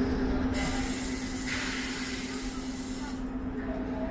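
Train in motion: a steady hum, with a spell of hissing from about half a second in to about three seconds in, and another starting near the end.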